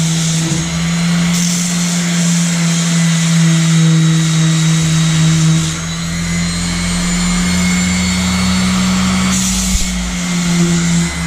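Electric disc sander running steadily with a motor whine over the hiss of the sanding disc working a boat's surface; the whine steps up a little in pitch about halfway through.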